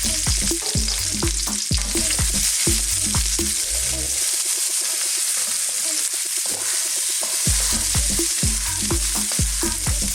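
Red onion, garlic and ginger sizzling in hot oil in a wok, with a steady high hiss, while a spatula taps and scrapes against the wok a few times a second as it is stirred.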